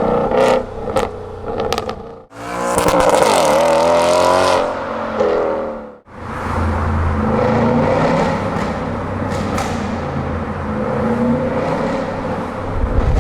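Audi S5's 4.2-litre V8 through a Capristo exhaust: short sharp revs with crackling pops, then a longer rev whose pitch dips and climbs again, then steady running with a deep rumble.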